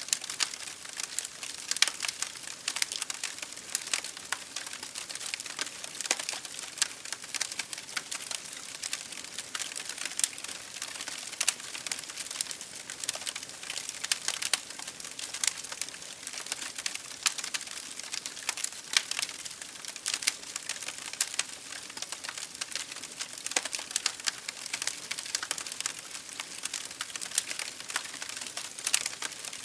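Wood fire burning in an open fireplace, with dense irregular crackles and pops over a steady hiss.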